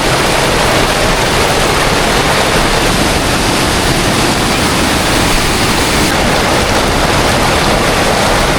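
Steady, loud rushing of a fast-flowing river.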